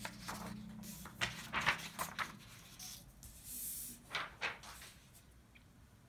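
Faint taps and scratching of writing: several short clicks spread through the stretch and one brief hiss about three and a half seconds in.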